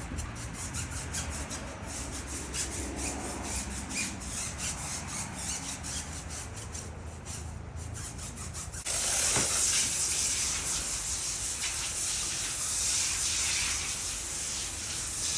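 Tires being cleaned at a self-serve car wash: quick, repeated rasping strokes, then about nine seconds in a steady loud spray hiss starts suddenly and keeps going.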